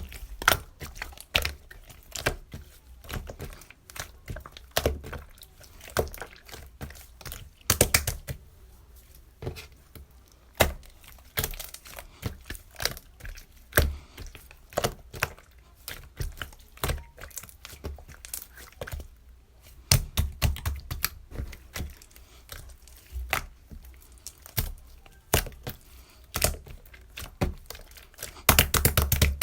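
An irregular series of sharp clicks, taps and knocks, with louder clustered rattles about 8 s, 20 s and 28 s in.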